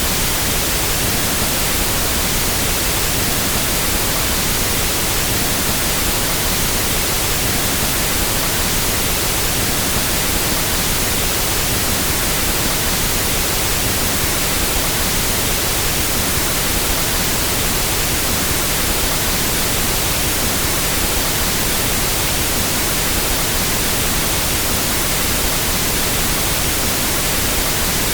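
Pink noise test signal used for equalizing sound systems: a steady, even hiss spread across all pitches, with no change in level.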